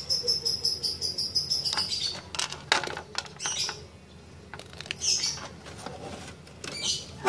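Birds chirping in the background: a rapid, pulsed high trill during the first two seconds, then short high chirps later on. A few sharp clicks sound about two and a half to three seconds in.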